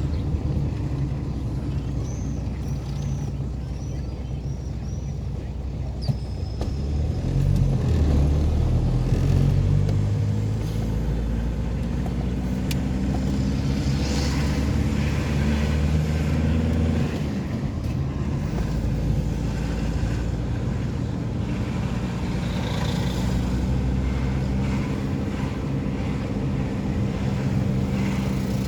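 Heavy diesel engines of road-works machinery running on a resurfacing job, the engine note swelling louder and higher about eight seconds in, then easing back to a steady hum.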